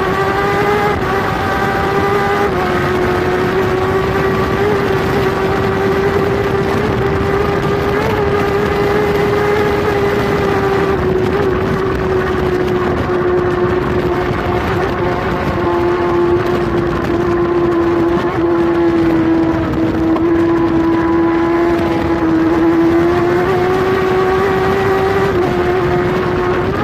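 Kawasaki superbike's inline-four engine, heard onboard, holding one high steady note at speed over wind rush. The pitch eases down slightly through the middle and climbs again near the end.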